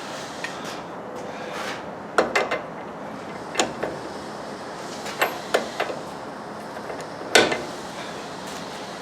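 Hand tools clinking and knocking on metal during suspension work: scattered sharp clicks in small clusters, with the loudest single knock about seven seconds in, over a steady background noise.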